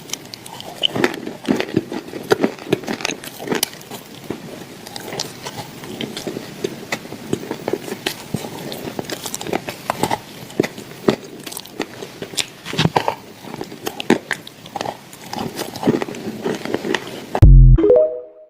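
Close-miked biting and crunchy, crackling chewing of edible clay, with many small clicks. Near the end there is a loud low thump followed by a short ringing tone, then the sound cuts off.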